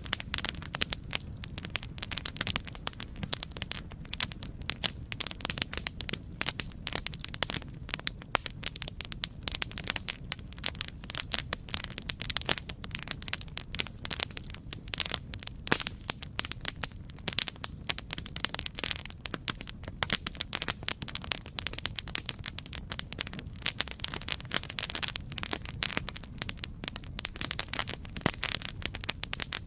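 Campfire crackling: dense, irregular pops and snaps of burning wood over a steady low rumble of the flames.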